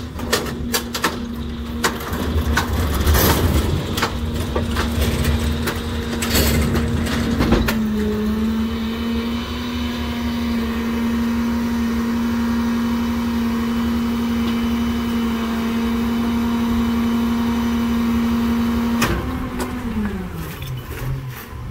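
NewWay rear loader garbage truck running its engine at raised speed to drive the packer, a steady hum, with cracks and clanks of trash being crushed in the hopper over the first seven seconds. Near the end the engine speed drops back toward idle.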